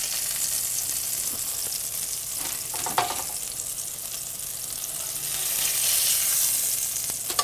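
Pike cutlets sizzling as they fry in hot oil in a non-stick frying pan, while a metal slotted spatula turns them. There is a short knock about three seconds in, and the sizzle swells a little near the end.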